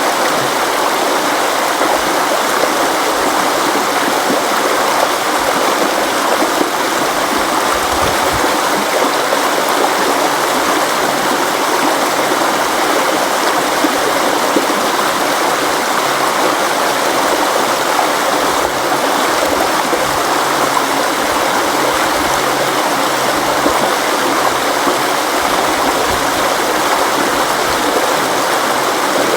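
A river or stream flowing, a steady, even rush of water.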